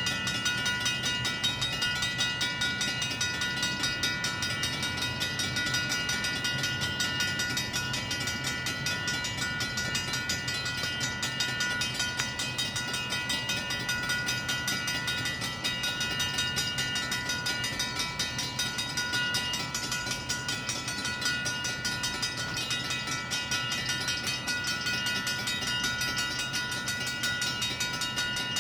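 Mechanical railroad crossing bells, a Safetran and a Griswold, ringing continuously with rapid, even strokes while the crossing is activated.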